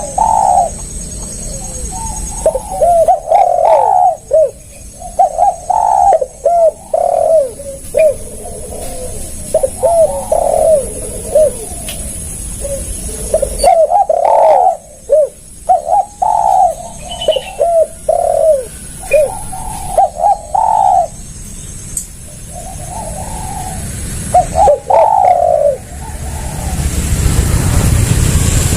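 Spotted dove (tekukur) cooing: repeated phrases of short coos, coming in several separate bursts with gaps between them.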